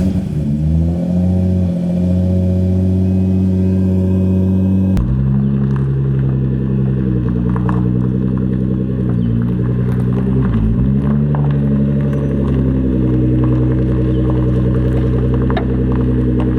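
Nissan 180SX's SR20DET turbo four-cylinder engine catching after cranking, then running at a steady idle, with an abrupt change in its tone about five seconds in.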